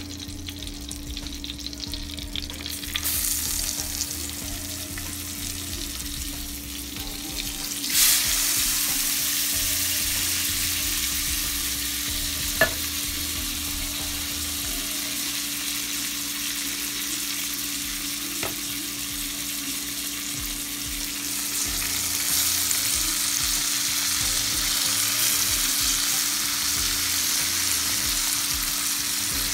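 Tilapia fillets and shrimp sizzling in hot oil in a frying pan, a steady hiss that jumps louder about eight seconds in. There is one sharp click near the middle and a steady low hum underneath.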